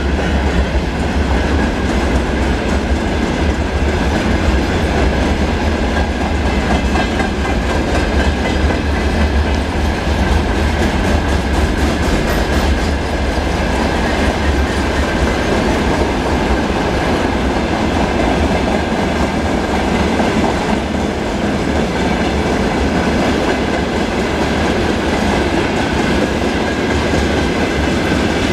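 Freight train wagons, open gondolas then tank cars, rolling past steadily: a continuous rumble and clatter of steel wheels on the rails, with a thin steady ringing tone above it.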